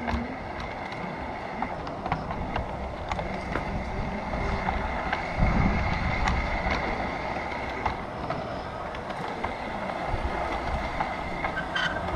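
G scale garden-railway model train running along the track, with a faint steady whine and scattered clicks from the wheels and rail. A louder low rumble comes about five and a half seconds in.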